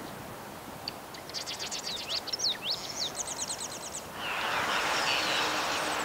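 Small birds calling and singing: fast, high trills and short sweeping whistles for a few seconds. A steady rushing background noise comes up about two-thirds of the way in.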